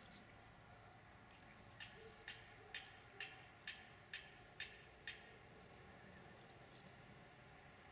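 A small bird chirping faintly: a run of short, high chirps about two a second, starting about two seconds in and trailing off into a few fainter ones after about five seconds.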